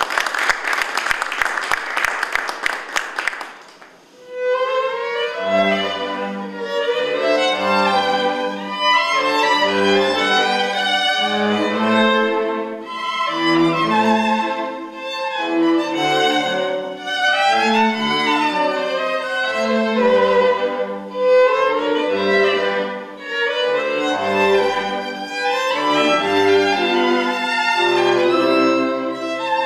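Applause for about three seconds, then bowed strings playing: a violin melody over low cello notes.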